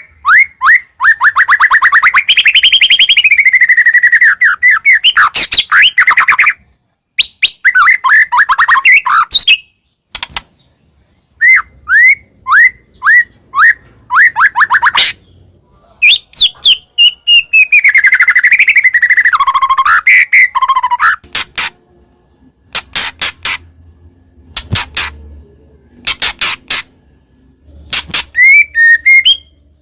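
White-rumped shama (murai batu) singing loudly and continuously. Long runs of rapid repeated notes rise and fall in pitch, with a series of separate down-slurred whistles and a varied warble. The phrases are broken by short pauses, and near the end come dry clipped notes.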